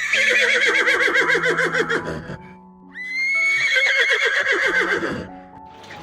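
Horse whinnying twice, each neigh about two seconds long, starting on a high rising note and breaking into a rapid quavering whinny, over background music.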